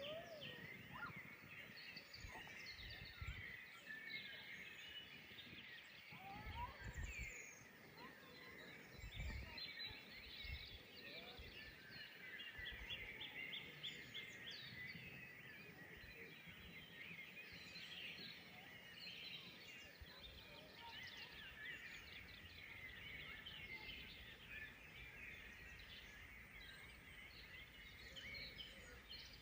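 Faint evening chorus of several songbirds, many overlapping short chirps and trills throughout, over a quiet outdoor hush with a few soft low rumbles in the first third.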